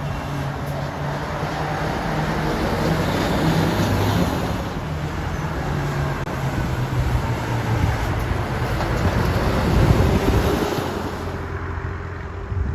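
Heavy diesel truck engine running as the truck drives past, with tyre noise on the road; it is loudest about ten seconds in, then fades.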